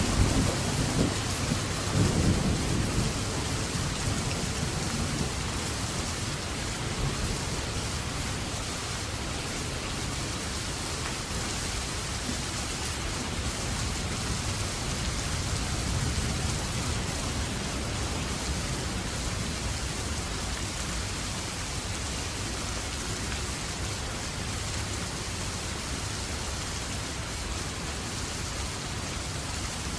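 Heavy rain falling steadily in a winter thunderstorm, with a low rumble of thunder in the first few seconds that dies away.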